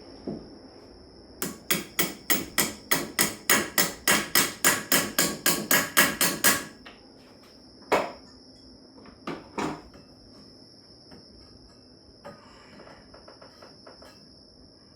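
Hammer blows: a fast run of about twenty sharp strikes, roughly four a second, for about five seconds, then a single strike and a quick pair of strikes a few seconds later.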